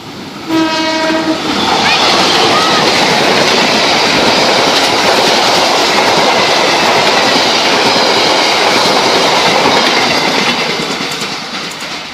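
A passenger train passing close by: a short horn blast about half a second in, then the loud rush and rumble of the coaches going past, fading near the end. The horn is the driver's greeting to the trackside watcher.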